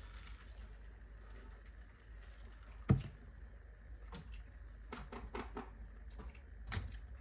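A single sharp knock about three seconds in, then a few lighter clicks and taps of objects being handled.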